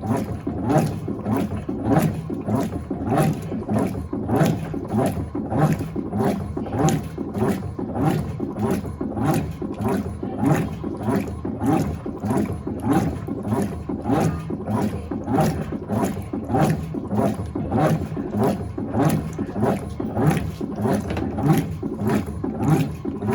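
Electrolux LTA15 top-loading washing machine agitating its load: the agitator swings back and forth through the water about twice a second in an even, rhythmic slosh.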